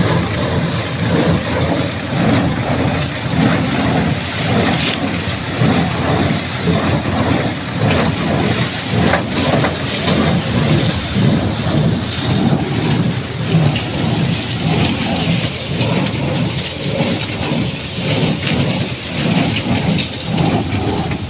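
Shaktiman square baler running as it bales sugarcane trash: a loud, steady rumble with a quick pulsing rhythm and a few sharp knocks.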